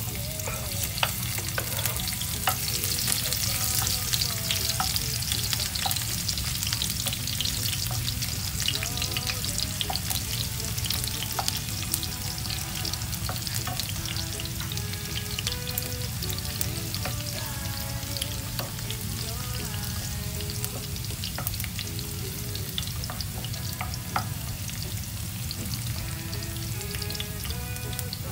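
Chopped garlic sizzling and crackling steadily in hot oil in a non-stick frying pan, with a wooden spatula stirring it through the oil.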